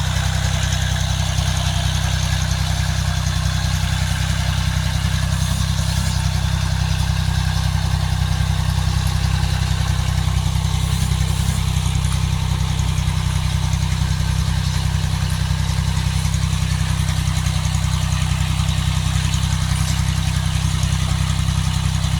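18 HP tractor engine running at a steady speed, an even low hum that does not change.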